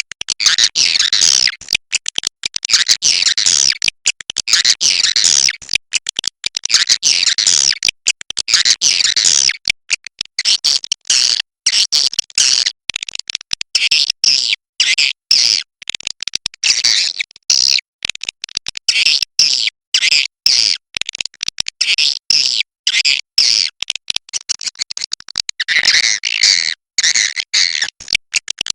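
Swiftlets chirping and twittering in a dense stream of rapid, high calls broken by many brief gaps; this is a 'suara inap' roosting call, the kind played to draw swiftlets in to roost. Near the end the calls take on a lower, harsher note.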